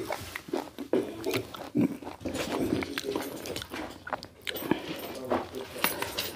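Close mouth sounds of chewing and smacking on rice and curry eaten by hand, with many short irregular clicks, plus soft taps as boiled eggs in curry are picked up and set down on a plate.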